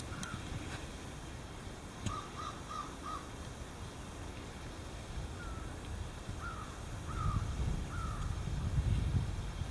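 A bird calling repeatedly: a quick run of four short calls, then several longer, drawn-out calls spaced about a second apart. A low rumble grows louder near the end.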